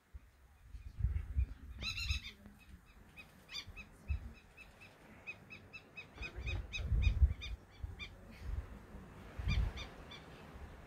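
A bird calling in a running series of short, high notes, a few a second, with one louder call about two seconds in. Irregular bursts of low rumble, the loudest sound, come and go beneath it.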